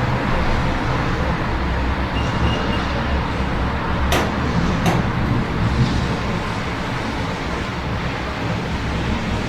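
City ambience in the rain: a steady wash of road traffic noise and rain. Two sharp clicks come a little under a second apart about four seconds in.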